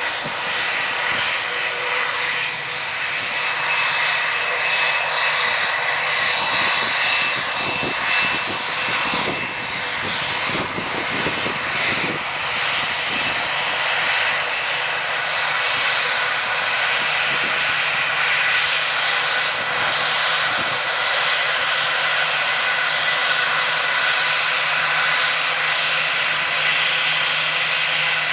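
Airbus A321-231 jet airliner's IAE V2500 turbofan engines running with a steady whine over a rushing noise, slowly growing louder.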